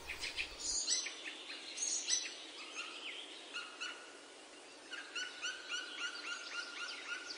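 Birds chirping over a steady hiss, with a quick run of repeated chirps in the second half.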